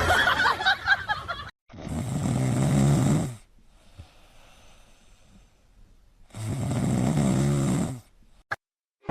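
Snoring: two long, loud snores about four and a half seconds apart, with a short burst of other noise just before the first.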